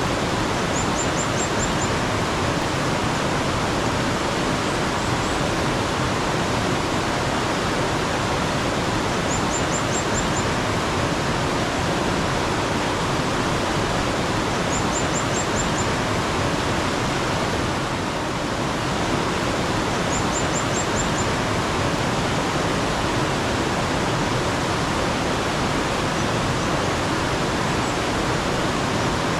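Mountain stream water flowing steadily in a constant rush, with a small bird four times giving a short, high, quick run of notes.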